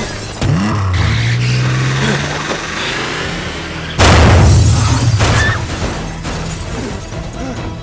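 A film action soundtrack: a vehicle engine under dramatic score, then a loud crash with breaking glass about four seconds in.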